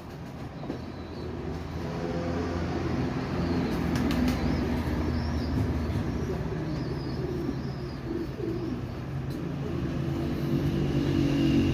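Domestic pigeons cooing, low and repeated, with a few sharp clicks about four seconds in.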